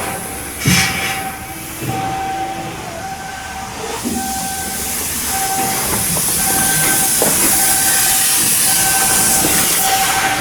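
Shipyard work noise: a short electronic warning tone beeping over and over, a hiss that grows louder about four seconds in, and a few sharp metal knocks.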